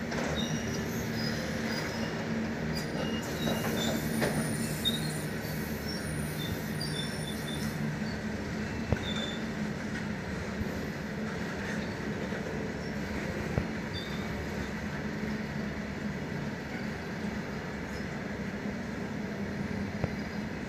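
Freight train wagons rolling past on the rails: a steady rumble of wheels on track with a low hum, a few sharp knocks, and brief high squeaks.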